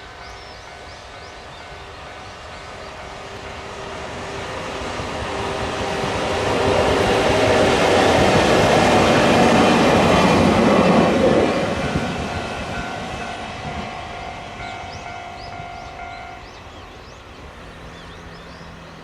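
Electric-locomotive-hauled freight train passing on the line: it builds up as it approaches, runs loudest for a few seconds around the middle, then fades as it moves away. Steady humming tones from the locomotive sound on both sides of the peak.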